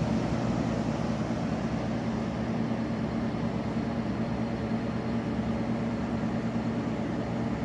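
Steady machine hum with constant low tones and an even whirring noise: an appliance motor running continuously.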